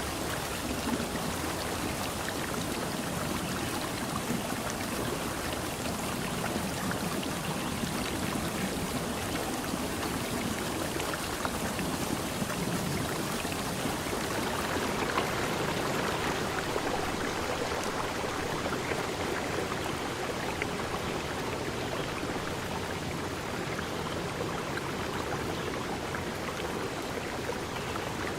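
Forest stream running, a steady, continuous rush of water.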